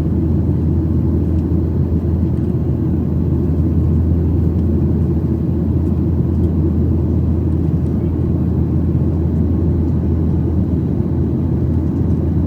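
Steady low rumble of a Boeing 737-800 cabin under engine power, the CFM56-7B turbofans and airflow heard from a window seat.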